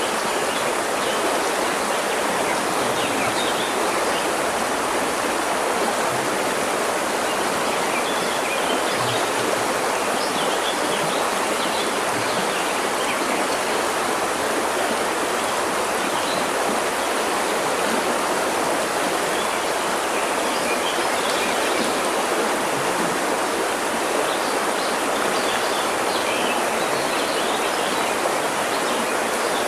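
River water rushing steadily over stones, with faint bird chirps here and there.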